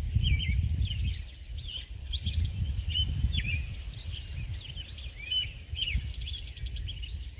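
A single songbird chirping over and over in short, quick notes, against a steady low outdoor rumble.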